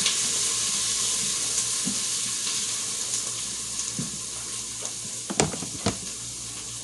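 Chopped onions and bell peppers sizzling as they sauté in a pan, a steady hiss that eases slightly, with a couple of sharp knocks near the end.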